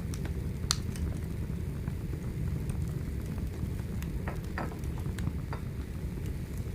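Wood fire burning, with a steady low rumble and a few sharp crackles and pops, one near the start and two a little past the middle.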